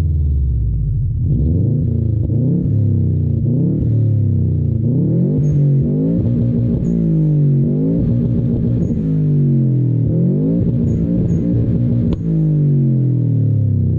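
Subaru Impreza's flat-four boxer engine breathing through a 3-inch Turboworks exhaust, revved repeatedly, its pitch rising and falling over and over.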